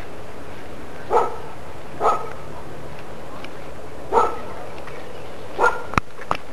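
A dog barking four times, a second or two apart, over a steady rushing background, followed by two sharp clicks near the end.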